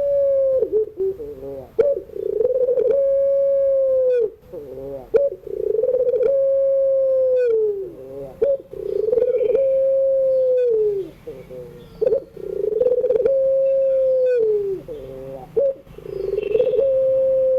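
Puter pelung (Barbary dove, the long-cooing type) cooing over and over: each call opens with a few short quick notes, then draws out into one long, steady coo that drops in pitch at its end, about five calls in all.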